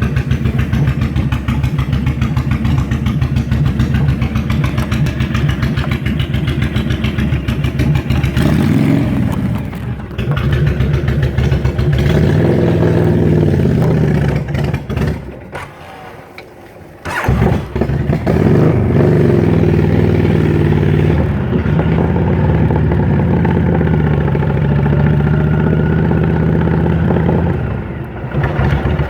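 A motor vehicle's engine running on a ride, its pitch rising and falling as it speeds up and slows. About halfway through it goes quieter for a couple of seconds, then picks up again suddenly.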